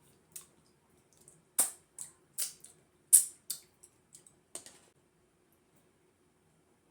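Close-miked wet mouth sounds of eating fufu and soup: a string of sharp smacks and squelches, about nine in five seconds, then they stop.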